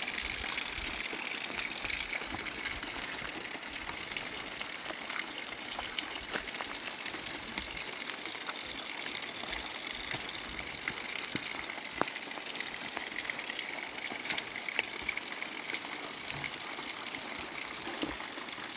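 Water rushing steadily, with scattered small ticks and taps through it.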